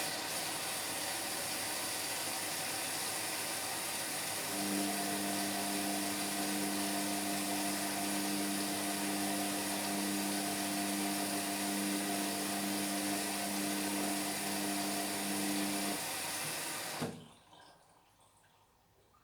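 Indesit MyTime washing machine taking in water early in its cotton cycle: a steady hiss of water flow that cuts off suddenly near the end. A low steady hum joins about four seconds in and stops just before the water does.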